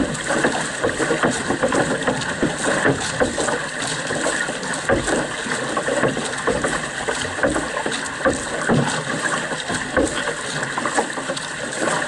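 Canoe under paddle: water rushing along the hull, with paddles splashing in irregularly and wind on the microphone.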